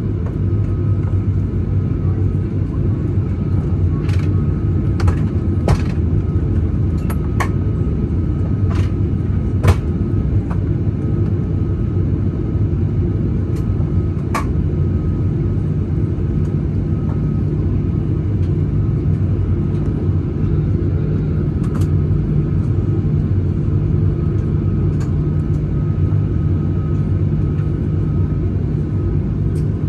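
Steady rumble inside a jet airliner's cabin as it taxis before takeoff, with a low hum. Scattered light clicks and knocks from the cabin fall through the first two-thirds.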